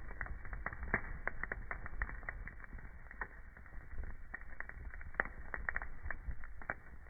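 Wood fire crackling in a fireplace: irregular snaps and pops, several a second, over a steady low rumble.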